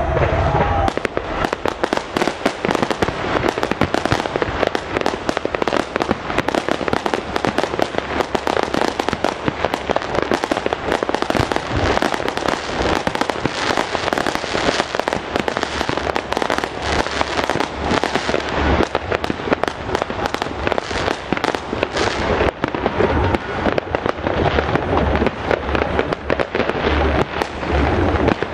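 A fireworks show: a dense, unbroken barrage of bangs and crackles, many bursts a second.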